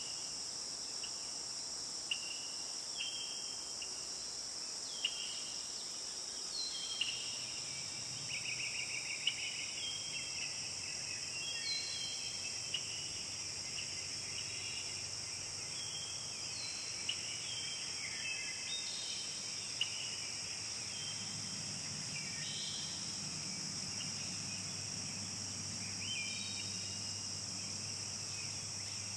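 Forest ambience: a steady high-pitched drone of insects such as crickets, with many short bird chirps and calls scattered throughout. A faint low rumble comes in partway through and grows in the second half.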